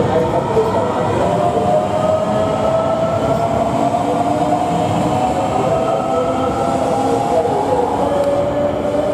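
JR Shikoku 8000-series electric express train pulling out of the station: a steady rumble of the cars moving, with a motor whine that slowly climbs in pitch.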